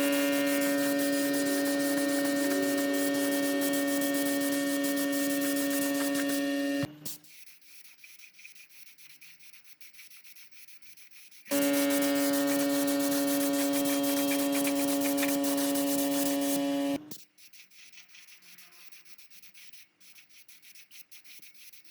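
A handheld power tool whining steadily while it grinds or sands with a scraping hiss, run in two bursts of about seven and five seconds that start and stop sharply, with quieter rubbing and handling in between.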